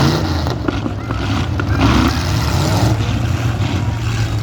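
Demolition derby car engines running loudly, with revving rises in pitch near the start and about two seconds in.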